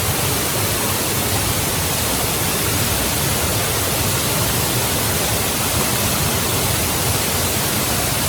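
Waterfall's water rushing: a loud, steady, even noise that does not change.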